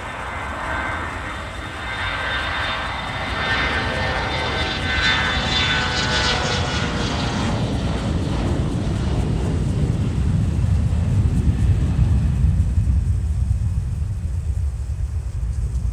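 Twin turbofan engines of a CRJ700 regional jet at takeoff power. A high whine with several tones fills the first half, then gives way to a deep rumble that peaks about twelve seconds in and starts to fade.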